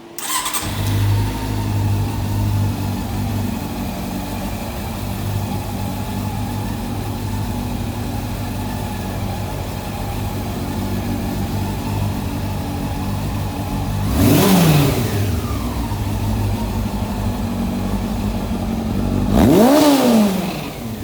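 Honda CB400 inline-four engine starting up, then idling steadily with an even beat, its carburettors freshly cleaned and synchronised. It is blipped twice, briefly about 14 seconds in and harder near the end, the revs rising and falling back to idle each time.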